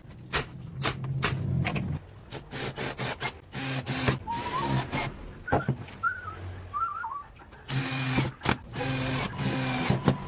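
Workshop tool work: a string of sharp clicks and knocks, with a low motor hum running for a couple of seconds at the start and again near the end, and a few short chirps in the middle.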